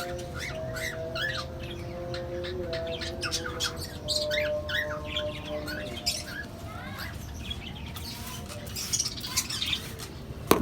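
Cockatiels chirping and squawking in a rapid run of short rising-and-falling calls, over held lower tones that fade out about halfway through.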